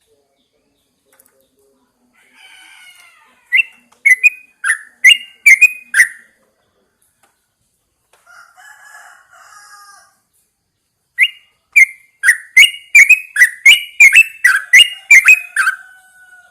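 Yellow-vented bulbul calling: two runs of loud, sharp, quickly repeated notes, about two to three a second, with softer chattering between them.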